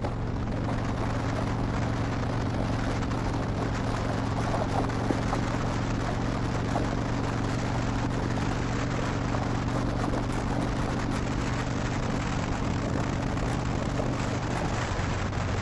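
Harley-Davidson Dyna Wide Glide's Twin Cam 103 V-twin running steadily at cruising speed through a Vance & Hines slip-on exhaust, with wind rushing over the helmet microphone. Near the end the engine note drops as the throttle eases.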